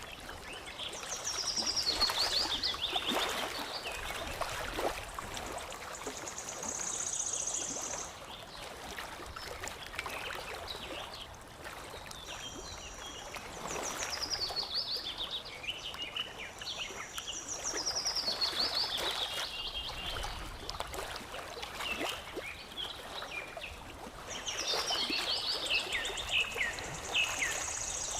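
Songbird singing several times, each phrase a quick run of notes stepping down in pitch, with a few short high trills between. Underneath, water lapping and trickling steadily.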